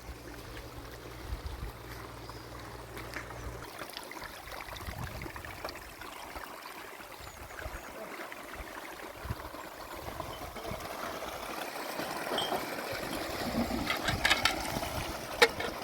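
Spring water trickling and running steadily, with a low rumble in the first few seconds and a few sharp knocks near the end.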